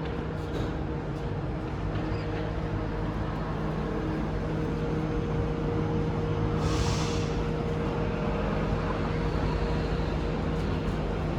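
Santiago Metro Line 5 train running through a station, a steady rumble with a humming drone and a brief hiss about seven seconds in.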